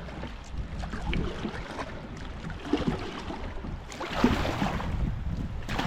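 Water splashing and sloshing around a kayak, with louder splashes about four seconds in and again near the end.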